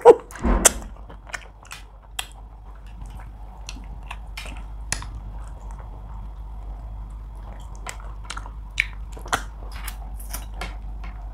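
Close-up eating sounds: chewing of tilapia fish and pounded yam eaten by hand, with many short sharp mouth clicks scattered throughout and a louder knock about half a second in. A faint steady low hum runs underneath.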